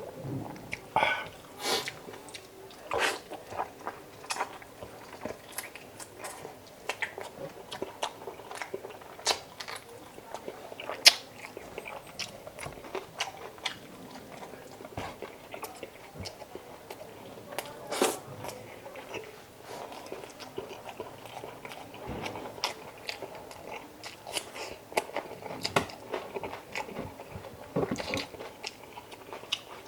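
A person eating chicken adobo up close, biting and chewing, with many short sharp clicks at irregular intervals.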